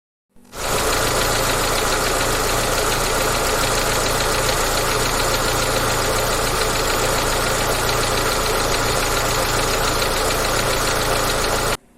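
An engine running steadily at an even speed, starting about half a second in and cutting off abruptly just before the end.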